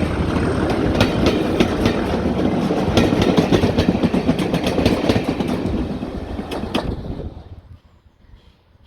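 Diesel train passing close by, its wheels clicking over the rail joints, the sound dying away about seven seconds in as it moves off.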